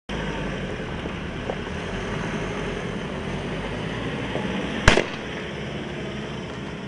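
A vehicle engine running steadily, with a single sharp bang about five seconds in.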